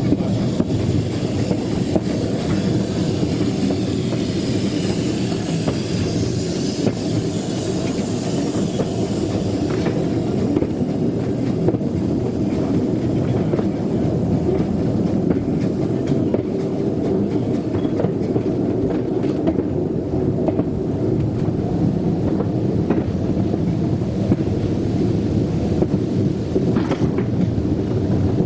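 Narrow-gauge train running along the track: a steady rumble of wheels on rail with faint clicks. A high hiss sits over it for about the first ten seconds, then fades.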